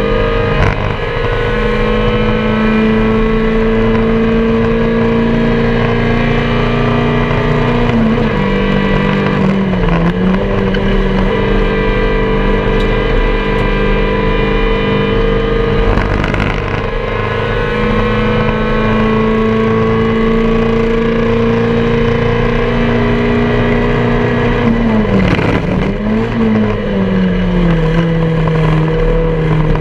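MG Metro race car's 1275 cc A-Series four-cylinder engine heard from inside the cockpit, held at high revs and slowly climbing, with the revs falling and dipping twice, about eight seconds in and about twenty-five seconds in, before pulling up again. Wind and road noise run under it, with a few brief knocks.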